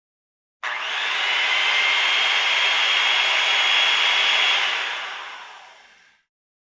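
Electric saw running in one burst: it starts suddenly about half a second in, runs steadily with a high whine, then winds down and fades out over the last couple of seconds.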